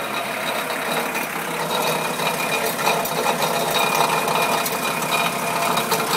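Volkswagen Eurovan diesel engine running, heard at the exhaust, with a fast ticking clatter through the steady engine noise. The owner takes the clatter for an abnormal noise from the muffler.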